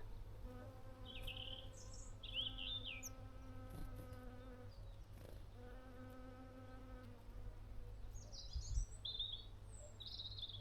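A flying insect buzzing close to the microphone in two spells, the second brief, while small birds at a feeder give short high chirps early on and again near the end.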